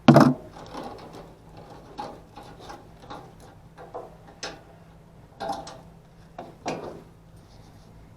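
Irregular clicks and knocks of hand tools and metal parts being handled during a blower motor replacement, the loudest right at the start, over a faint steady low hum.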